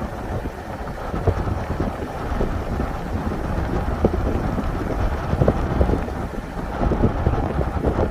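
Wind buffeting the microphone of a moving car: a low rumble with irregular thumps and gusts, over the steady road noise of the drive.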